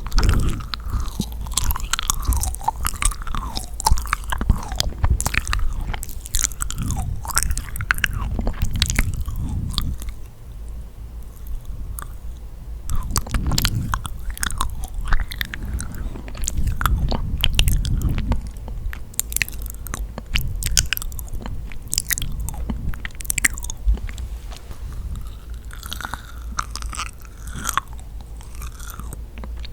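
Close-miked biting and chewing of yakgwa, a honey-soaked Korean fried cookie: sticky, wet mouth clicks and smacks, with a quieter stretch about a third of the way in.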